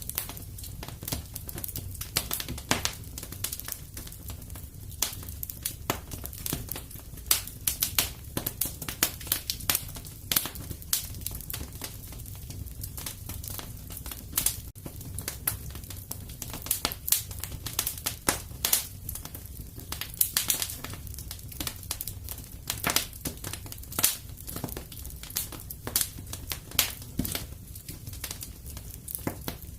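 Wood fire in a fireplace crackling and popping: irregular sharp pops, several a second and of uneven strength, over a low steady rumble.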